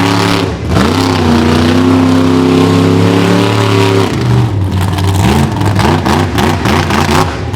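Monster truck engine revving hard: the revs climb and hold steady for about three seconds, then break into a run of quick throttle blips, two or three a second.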